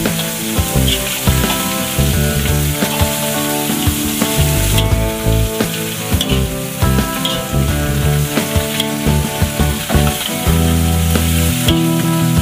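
Food sizzling as it fries in a pan, over background music with changing bass notes.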